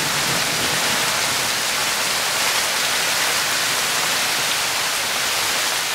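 Steady rain falling in a rainstorm, an even dense hiss with no breaks.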